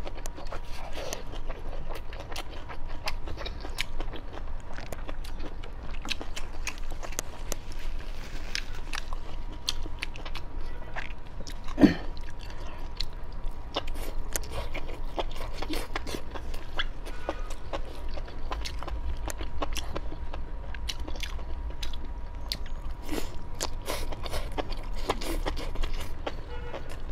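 Close-miked eating of spicy fried skewers: continual biting and chewing with many small wet clicks. There is one louder mouth sound about twelve seconds in.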